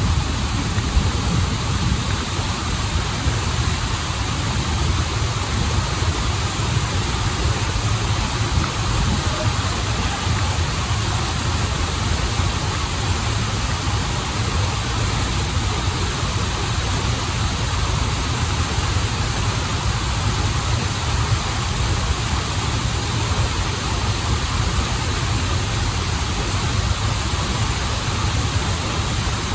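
Waterfall and river stream running water, a steady rush with a deep low rumble under it.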